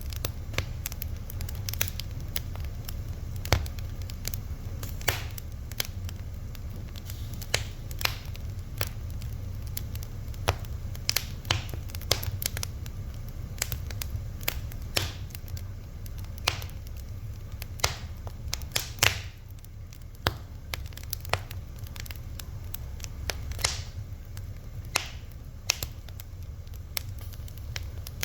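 Wood fire burning, with irregular sharp crackles and pops, several a second, over a steady low rumble.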